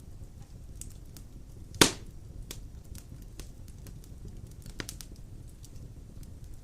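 Wood fire crackling in a fireplace over a low, steady rumble. There is one loud, sharp pop about two seconds in and a smaller pop a few seconds later.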